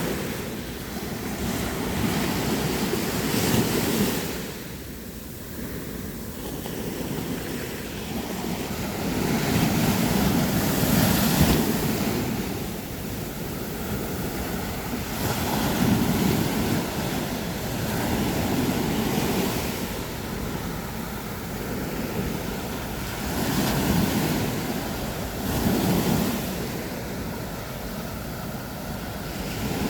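Sea surf breaking on a beach: a continuous rushing hiss that swells as each wave breaks and ebbs as it washes back, about every five to seven seconds.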